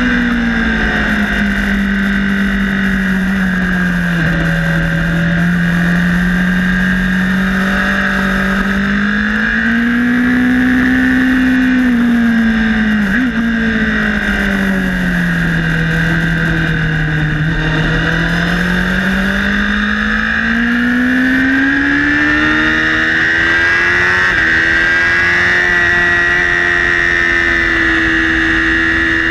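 Honda CBR1000RR inline-four engine at track speed, heard onboard, its pitch sinking and rising slowly several times and holding highest near the end.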